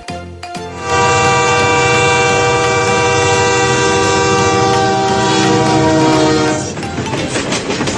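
Train horn sounding one long, loud blast of about six seconds, a chord of several steady tones, followed by a rattling clatter.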